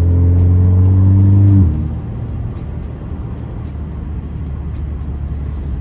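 Muffler-deleted four-cylinder engine of a 2017 Alfa Romeo Giulia pulling under acceleration, its note climbing steadily, then falling away sharply about a second and a half in. After that a lower, steady drone of engine and road noise at speed.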